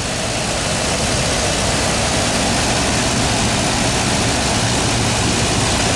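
2003 Toyota Tundra's engine idling steadily, a newly fitted serpentine belt running smooth.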